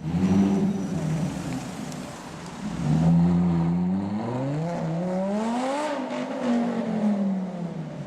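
Lamborghini Gallardo LP570-4 Superleggera's V10 through a custom titanium exhaust, loud. A short burst opens the sound, then from about three seconds in the engine pitch climbs steadily and falls away again near the end.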